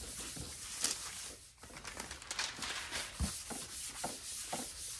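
Hands rubbing and handling paper craft pieces on a board, a steady run of scratchy rubbing and crinkling strokes with a few light knocks.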